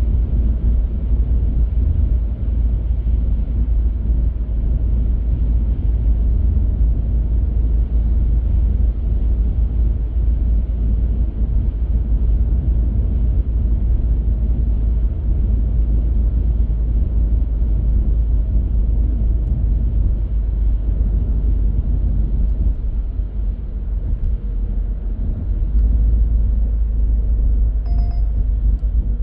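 A car driving, with a steady low rumble of road and tyre noise. A short, faint tone sounds near the end.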